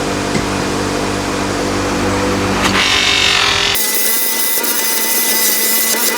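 Bench-mounted motor spinning a polishing wheel, running steadily, with metal pressed against the wheel for about a second near the middle to give a bright scrubbing hiss. About four seconds in the sound changes abruptly to a thinner steady hiss without the motor's low hum.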